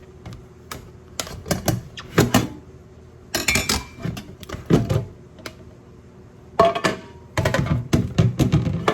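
A plastic food package being opened and handled, with irregular clicks, knocks and plastic crackling in clusters.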